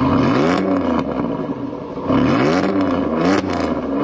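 Car engine revving hard under acceleration, its pitch climbing and dropping back several times.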